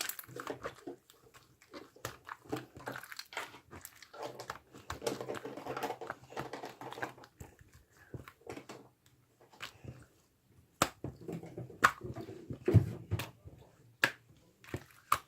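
Gel slime with pearl beads in it being squished and pressed by hand: wet squelching with sharp clicks and pops, the clicks more spaced out in the second half.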